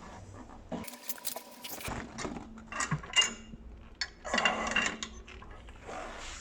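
Metal clinking and rattling from the weight stack and selector pin of a plate-loaded gym adduction machine, in several short irregular bursts.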